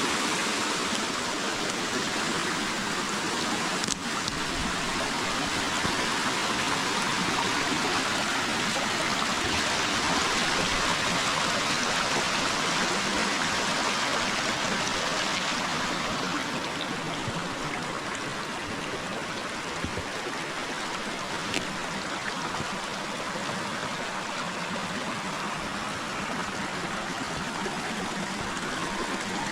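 River water flowing over a forest streambed, a steady rushing and trickling. It becomes a little quieter about halfway through.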